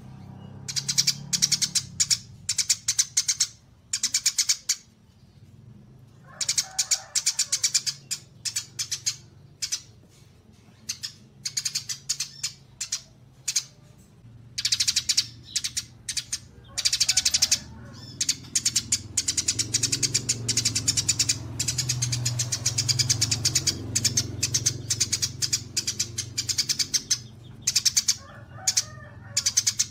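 Recorded songbird calls, the mix of kapas tembak, cililin and fighting-sparrow songs used for masteran: repeated bursts of fast, high-pitched chattering trills with short pauses between them. A faint low hum runs underneath, louder in the second half.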